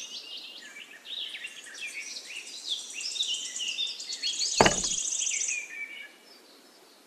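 Birds chirping and singing in many short calls that slide up and down, with a buzzy trill and a single sharp knock about four and a half seconds in. The birdsong dies away about a second before the end.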